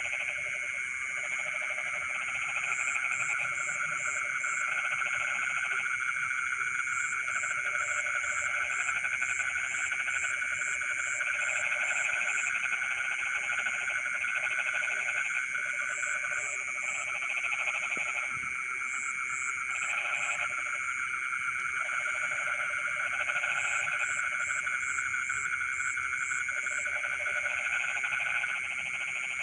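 A dense night chorus of many frogs calling at once in flooded rice fields. Lower-pitched bouts of calls come and go every second or two, and short, quick series of high chirps break in now and then.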